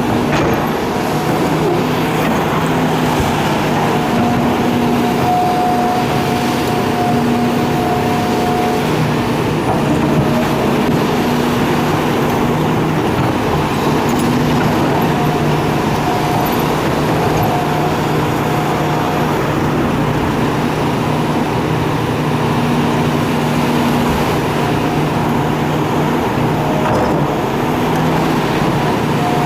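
Hitachi excavator's diesel engine running steadily under working load, with a few steady machine tones that fade in and out every few seconds.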